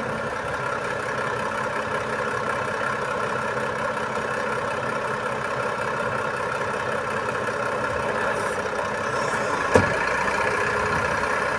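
Heavy truck engine idling steadily, with one sharp knock near the end.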